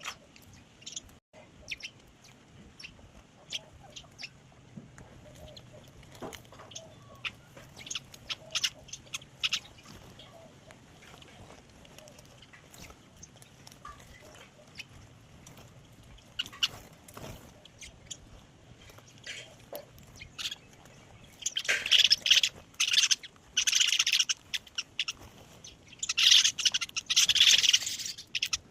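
Small birds chirping: scattered short high chirps for the first twenty seconds or so, then loud bursts of rapid chirping near the end.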